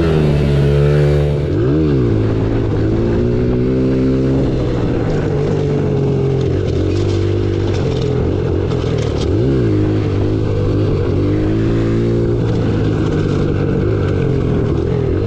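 Small single-cylinder four-stroke dirt bike engine running under way, its pitch rising and falling with throttle and gear changes, with a few quick throttle blips.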